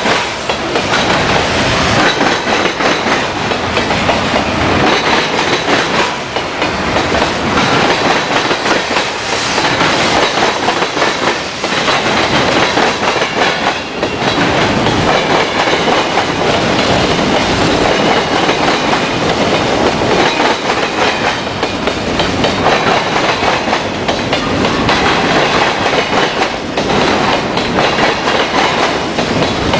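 A long train rolling past close by, its wheels clattering steadily over rail joints without a break.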